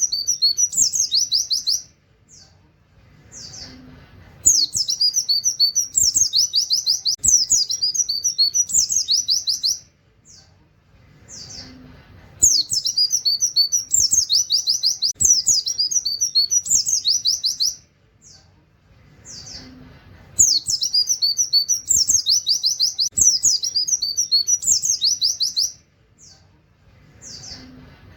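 A white-eye (pleci) singing its rapid 'tembakan' phrases mixed with canary-like 'wit wit' notes: high, fast trilled bursts about five seconds long, repeating about every eight seconds, with a few short single chirps in the pauses between.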